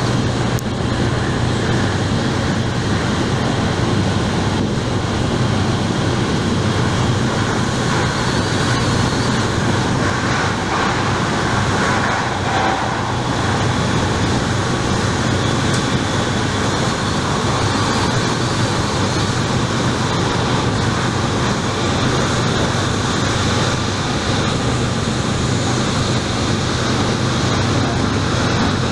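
MTR Korean-built K-Train (Hyundai Rotem) running at steady speed: a constant rumble and hiss of wheels on rail with a low steady hum, heard inside the passenger car.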